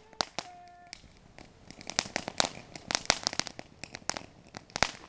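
Small firework crackling: an irregular run of sharp snaps and pops, growing thicker about two seconds in.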